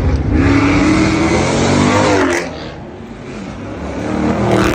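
Car engine revving hard, its pitch climbing, then easing off about two and a half seconds in and building again near the end.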